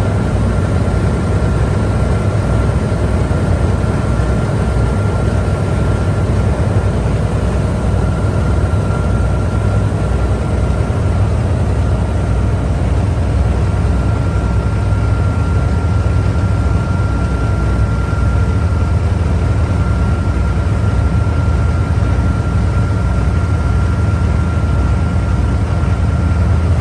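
A boat's engine running steadily at cruising speed, a loud, even low drone with a thin steady whine above it, heard from on board.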